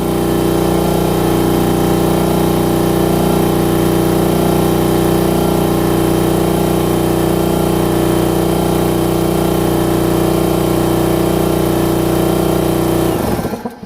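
Husky 30-gallon air compressor's 1.7 HP pump running steadily, then winding down and stopping about a second before the end as it shuts off by itself on reaching full tank pressure.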